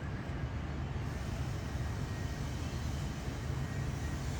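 Steady low background rumble with no distinct sounds on top, the kind of noise left by wind on the microphone or distant traffic.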